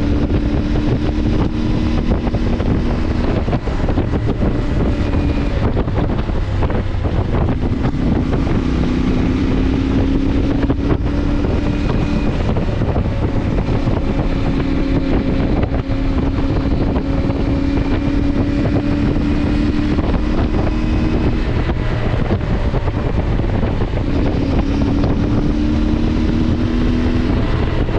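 CFMoto motorcycle engine running under way, its pitch rising and falling gently with speed and easing off briefly a few times, under heavy wind rush on the microphone.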